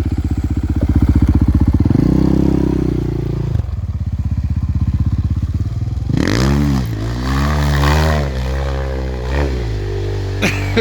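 Enduro motorcycle engine revving, the pitch climbing and dropping several times as the throttle is worked, with a run of quick rev swings in the second half.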